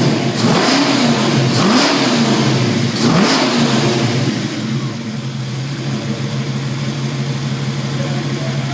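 1967 Ford Mustang engine revved in three quick throttle blips, each rising and falling, then settling into a steady idle.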